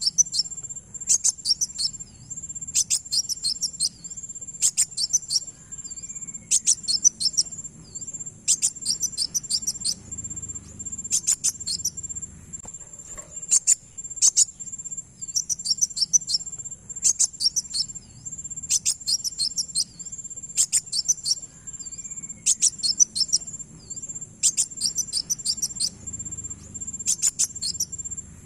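Kowul (kolibri wulung), a sunbird, giving short bursts of rapid, high-pitched chirping notes that repeat at an even pace, about one burst every two seconds. Beneath them runs a steady, thin, high-pitched insect-like trill.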